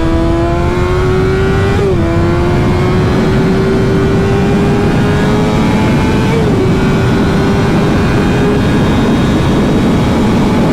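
Sport motorcycle engine pulling hard under acceleration, its pitch climbing slowly and dipping briefly twice, about two seconds in and again past six seconds, as it shifts up a gear. Heavy wind rush on the helmet-mounted microphone runs under it.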